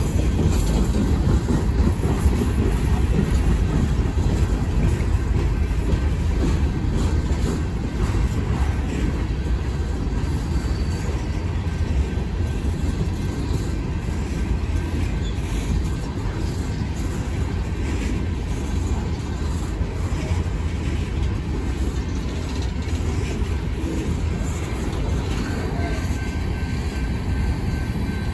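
Empty coal hopper cars of a freight train rolling past: a steady rumble and clatter of steel wheels on the rails, easing off slightly toward the end.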